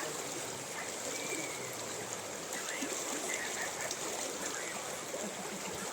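Mountain river running: a steady rush of flowing water.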